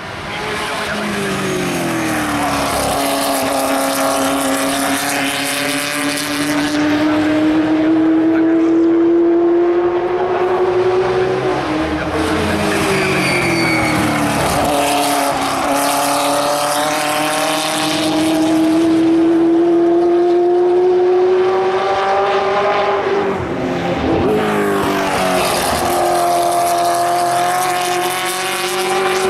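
Historic 1960s sports-racing cars running at full throttle, loud engine notes that climb slowly for several seconds and then drop sharply, three times over, as the cars pass one after another. A brief high squeal, likely from tyres, is heard near the middle.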